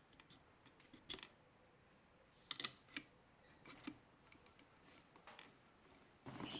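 A few faint, scattered clicks and taps of small hard parts being handled, over near-silent room tone, with a small cluster about two and a half seconds in and another near the end.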